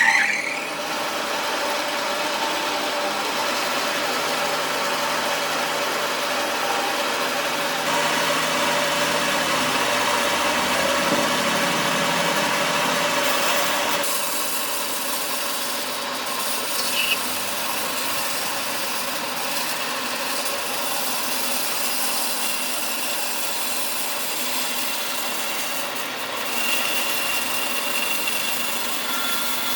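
Restored large wood-sawing machine running and sawing through wood, a steady machine sound that grows louder and denser for several seconds in the middle before settling back.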